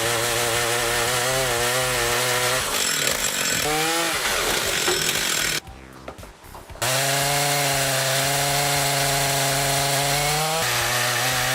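Petrol chainsaw running at high revs and cutting wood, its pitch wavering under load. It breaks off for about a second midway, then runs steadily at a high pitch again, with a change in tone near the end.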